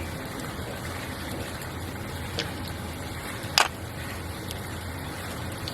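Mahjong tiles clicking on the table: a faint tap about two and a half seconds in and a sharper clack about a second later, over a steady low hum.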